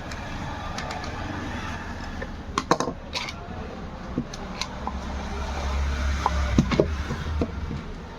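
Scattered sharp clicks and knocks of small hard parts being handled, with a cluster about two and a half seconds in and another near seven seconds in, over a steady low rumble that swells in the second half.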